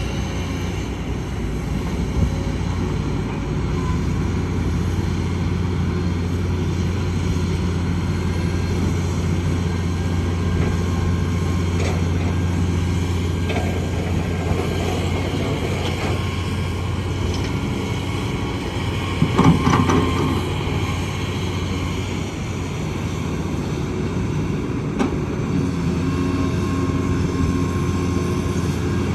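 Kobelco excavator's diesel engine running steadily as the machine works, with a brief metallic clank about two-thirds of the way through.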